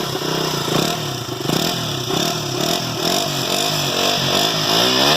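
KTM RC 200's single-cylinder engine, just started, being revved repeatedly in quick throttle blips, its pitch rising and falling about twice a second.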